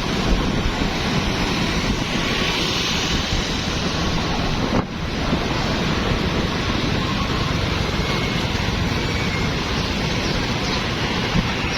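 Steady street traffic noise of motorbikes, cars and tuk-tuks, heavily overlaid by wind noise on the microphone. The sound dips briefly about five seconds in.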